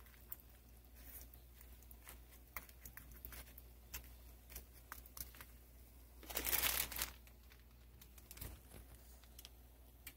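Pita frying in a skillet, with scattered light pops and crackles. A louder, noisy rush lasting under a second comes about six and a half seconds in.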